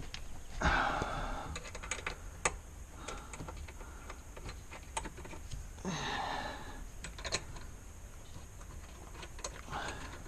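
Irregular light clicks, ticks and rattles of hand tools and plastic interior trim being worked on, with a few short scraping swishes.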